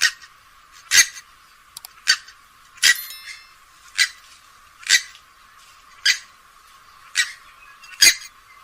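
Grey-headed swamphen calling, short sharp calls repeated evenly about once a second.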